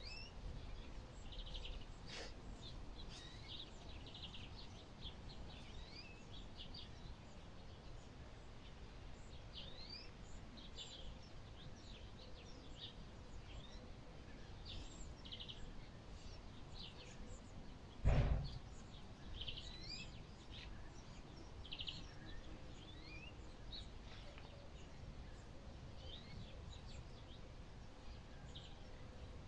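Many small birds chirping and twittering throughout, over a steady low rumbling background noise. A single loud thump comes about two-thirds of the way through.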